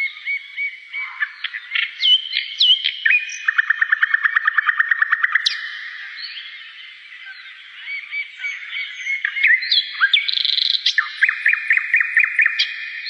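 Several small songbirds chirping and calling together, with short rising and falling notes. A fast trill of about ten notes a second comes about four seconds in, and another near the end.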